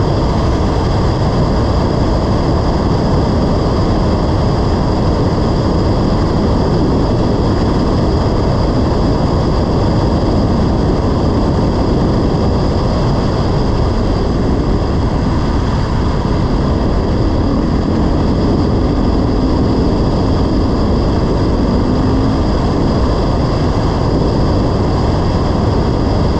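Dirt bike running steadily while riding, mixed with heavy wind rush on the microphone.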